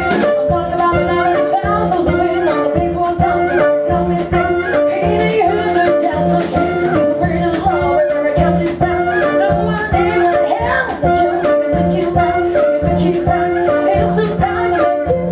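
Live swing band playing an upbeat jazz number with a steady drum and bass beat.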